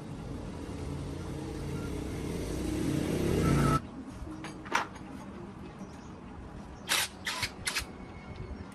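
Tractor engine running and growing louder, then cut off abruptly about four seconds in, followed by a few sharp knocks.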